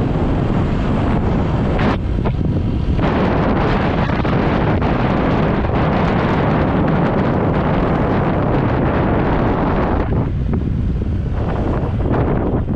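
Strong wind buffeting the microphone, mostly covering the 2018 Honda PCX150 scooter's single-cylinder engine and road noise while riding. The hiss of the wind eases twice for a moment, about two seconds in and again near the end.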